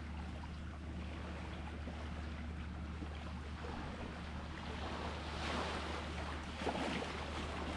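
Sea water washing and lapping, with a louder surge of a wave about five and a half seconds in and another splash about a second later, over a steady low hum.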